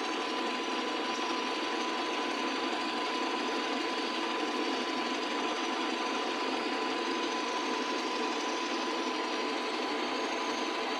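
Harbor Freight 79cc single-cylinder engine running steadily at a constant speed, with no change in pitch.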